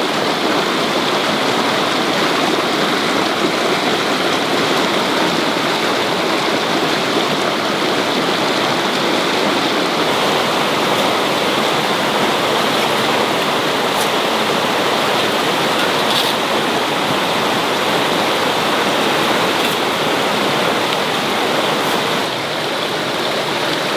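Steady, loud rush of water, with a few faint clicks in the second half.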